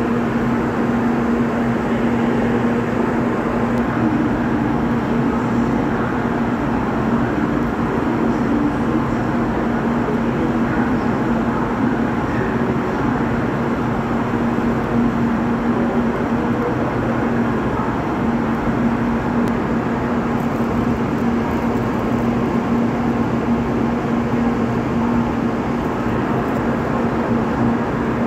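Shinkansen train standing at a platform: the steady hum of its onboard equipment, one constant tone over an even rushing noise, with no sound of accelerating or braking.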